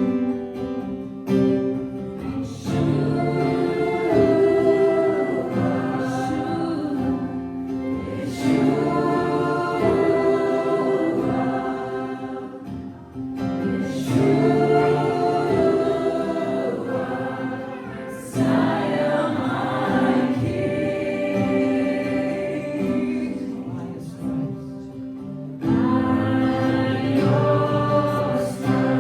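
Group worship singing: many voices sing a slow song in phrases of a few seconds, over guitar and steady sustained chords.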